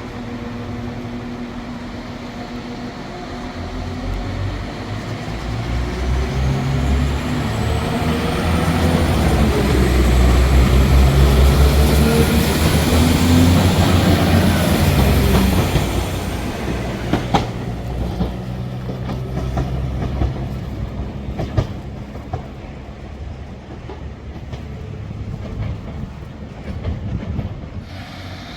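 Passenger train running on the rails, its rumble and wheel clickety-clack building to a peak about midway and then easing off, with faint gliding wheel tones at the loudest part and a few sharp clicks later on.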